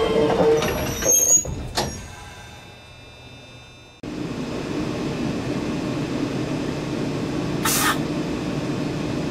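Hakone Tozan Railway electric railcar drawing to a stop: a steady whine fades out in the first second, with brief high squeals and a click from the brakes, then it goes quiet. A steady low hum sets in abruptly about four seconds in, and near the end comes a short hiss of air.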